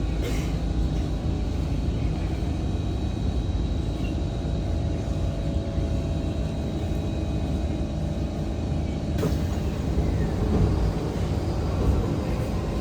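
Steady low rumble inside an SMRT C151 train car standing at a station platform with its doors open, with faint steady electrical tones. A faint high hiss starts abruptly about nine seconds in.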